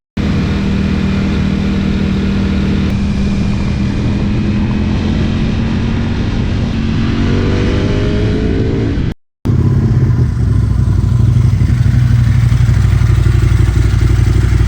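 Ducati 996 RC's V-twin engine running loud and steady, its pitch creeping up slowly for a couple of seconds; after a brief cut, a deeper, steady engine note.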